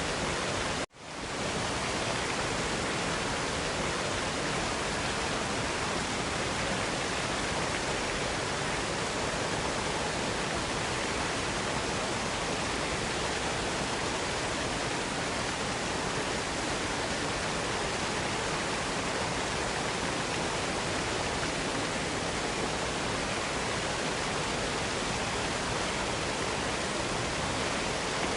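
Waterfall cascade: steady, dense rush of falling water. About a second in, it cuts out for an instant and fades back in.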